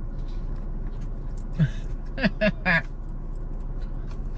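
Steady low rumble of a car heard from inside the cabin, with four short wordless vocal sounds from a woman a little before the middle.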